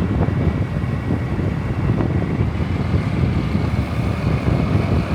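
Wind buffeting the microphone on a moving motorbike, a steady low rushing noise mixed with the bike's running.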